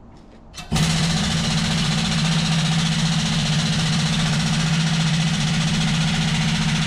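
A motor-driven machine starts under a second in and runs on steadily, with a strong even hum and a fast rattle.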